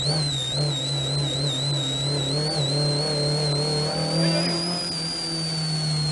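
Lada 2105 hillclimb car's engine running hard under load, heard from inside the cabin, with a steady low drone and a high whine that wavers in pitch and begins to fall away near the end.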